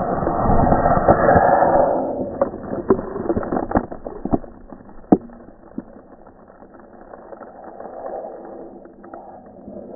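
Model rocket's F motor firing: a loud rushing hiss that builds and fades out about two seconds in, followed by a run of sharp clicks and knocks.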